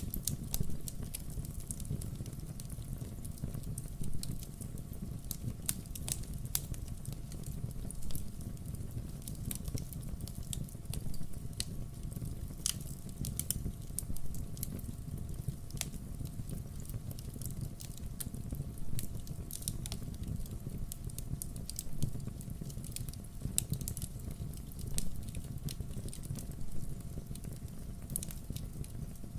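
Wood fire crackling: irregular sharp pops and snaps over a low, steady rumble of the burning logs.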